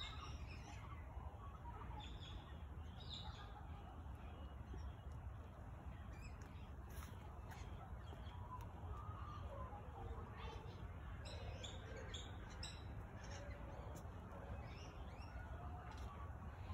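Faint birds chirping and calling on and off, more of them about two-thirds of the way in, over a steady low rumble.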